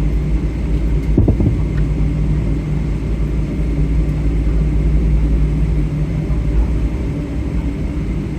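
Boeing 777-300 cabin noise: a steady low rumble from the Rolls-Royce engines running at idle and the airframe as the airliner taxis after landing. A brief low thump comes about a second in.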